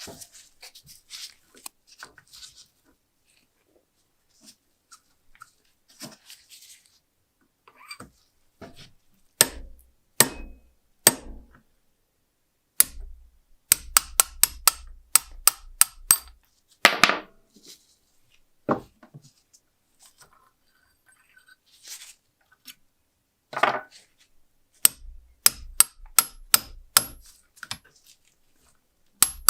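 Irregular sharp taps and knocks from hand tools working on a small metal lighter, some in quick runs of several a second, with a couple of short scraping sounds.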